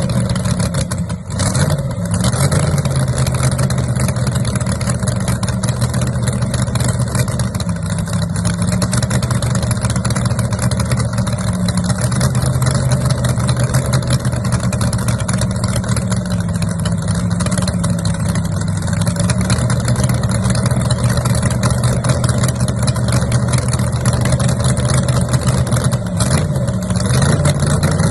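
Loud car engine idling steadily, its pitch rising briefly a few times as the throttle is blipped.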